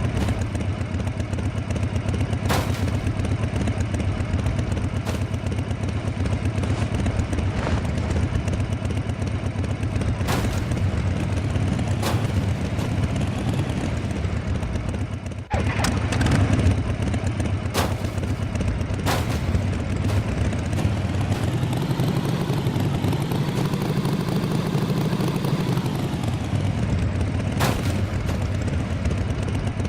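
A vehicle engine running steadily with a low rumble, with sharp knocks every few seconds. It breaks off abruptly about halfway, then its pitch rises and falls back later on.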